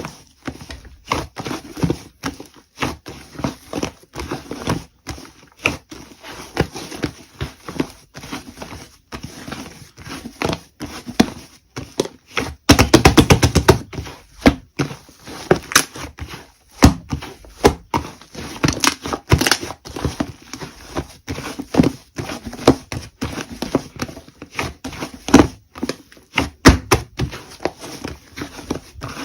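Slime being squished and pressed by hand, making irregular sticky pops and clicks, with a quick run of rapid pops about thirteen seconds in.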